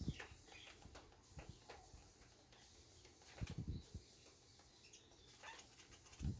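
Faint, scattered short bird chirps, with a couple of low thumps about three and a half seconds in.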